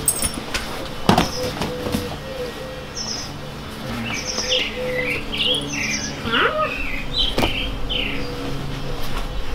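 Small birds chirping: a string of short, high notes, some in quick groups of three, with a couple of sharp knocks, one about a second in and one about seven seconds in.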